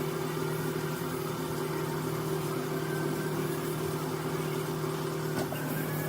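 An engine running steadily, an even low hum that holds the same pitch throughout.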